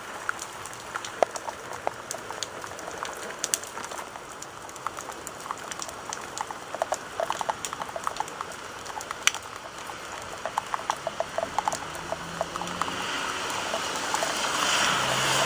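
Heavy rain coming down hard, a steady hiss with many sharp drops ticking on nearby surfaces. Near the end a car passes on the wet street, its tyre hiss and low engine hum swelling.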